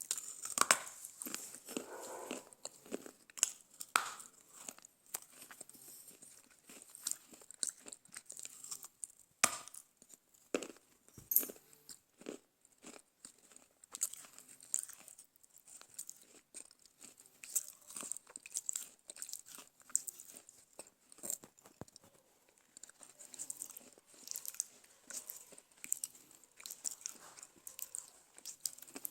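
Dry chikni mitti clay from a clay stove being bitten and chewed close to the microphone: irregular sharp crunches and crackles with softer grinding chews between them.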